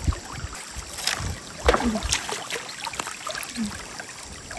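Fast-flowing stream water running and gurgling, with a few sharp splashes or knocks.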